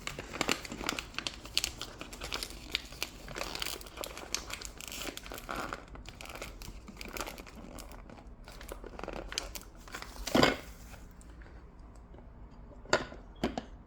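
A coffee bag crinkling as it is closed, with dense crackly rustling for about ten seconds. A sharp knock comes about ten seconds in, and another near the end.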